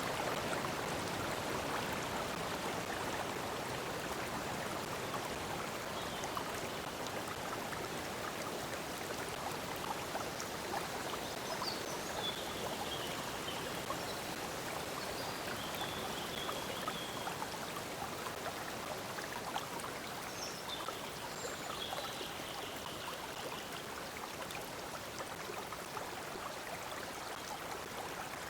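A stream of flowing water, a steady rushing and trickling. Faint high bird chirps come and go in the middle stretch.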